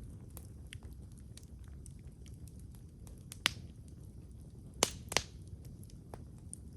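Wood fire crackling: scattered small ticks over a low steady rush, with three loud sharp pops, one about halfway through and two close together near the end.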